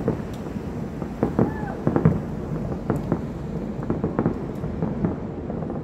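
Fireworks going off in a dense volley: many irregular sharp bangs and crackles over a continuous low rumble.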